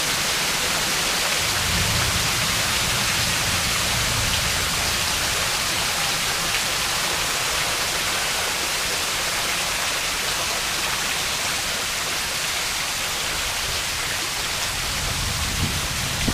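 Heavy rain falling in a steady, even hiss, with water streaming off the roof edges.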